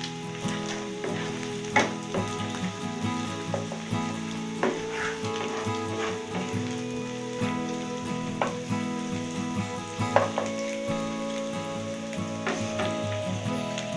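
Food sizzling as it fries in a pan, with frequent sharp clicks and scrapes of a utensil stirring it.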